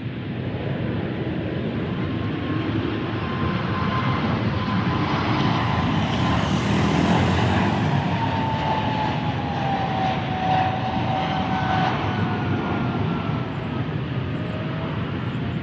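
Jet airliner on final approach passing close by: steady engine noise with a thin whine that slowly falls in pitch as it goes past, loudest about halfway through.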